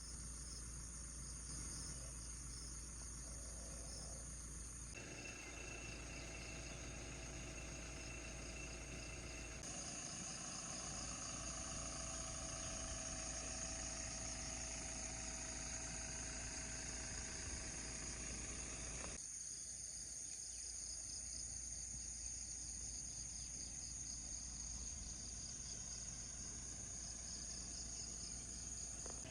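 Steady chorus of insects trilling at a high pitch, with a faint low hum underneath. The mix of the chorus changes abruptly a few times.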